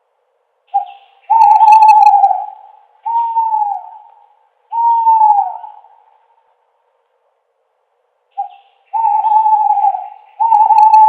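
An owl hooting in two phrases. Each phrase opens with a short note followed by long hoots. The first phrase ends in two shorter hoots that fall in pitch, and the second phrase starts about eight seconds in.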